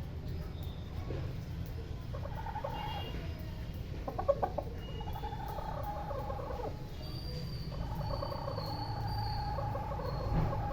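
Hen calling in the background: short clucks, then long, drawn-out calls, each held for a couple of seconds.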